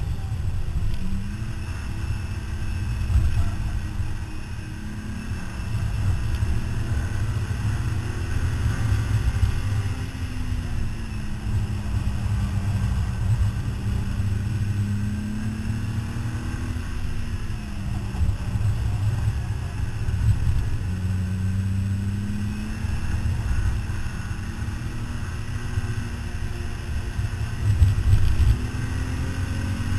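Car engine running hard on a race track, its pitch rising and falling as it accelerates, shifts and slows for corners, under a heavy low rumble of wind and road noise.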